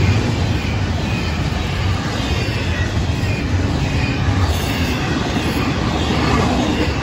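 Florida East Coast Railway intermodal freight cars rolling past: a steady, loud rumble of steel wheels on the rails, with a faint high wheel squeal coming and going.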